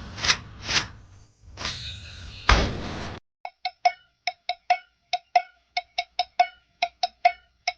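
A few knocks and thuds over background noise, then a quick run of short, sharp woody ticks, about three a second and unevenly spaced, with complete silence between them.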